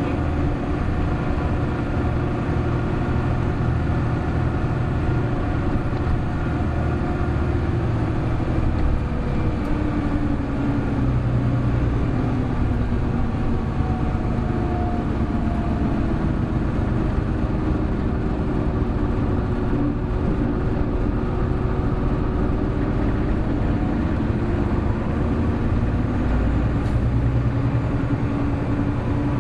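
Hino Blue Ribbon City Hybrid bus running under way, heard from inside the cabin. The diesel engine and drivetrain drone steadily, with the note rising and falling as it pulls through the gears.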